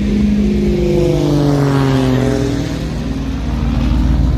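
An engine passing by, its drone falling in pitch as it goes past, about two seconds in.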